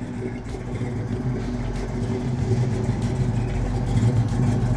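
Hemi V8 of a 1970 Plymouth 'Cuda, a 426 Hemi stroked to 480 cubic inches, running as the car pulls slowly up alongside. Its steady low exhaust note grows gradually louder as it approaches.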